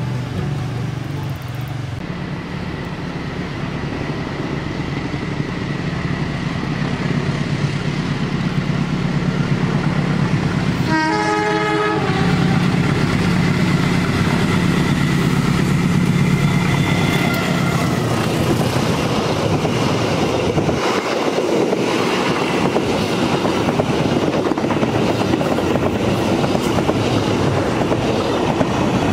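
Diesel locomotive-hauled passenger train approaching, its engine hum growing louder, with a short horn blast about a third of the way in. In the last third the coaches rush past close by, with a steady loud rumble of wheels on the rails.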